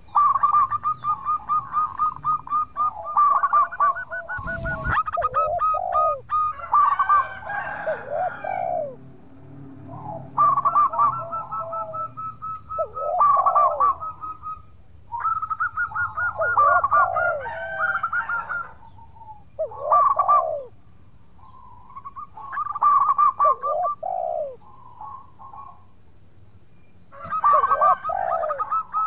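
Zebra dove (perkutut) singing its cooing song again and again: each phrase a quick run of rapid notes followed by a few lower, falling coos, in bouts of several seconds with short pauses between. A single low thump about five seconds in.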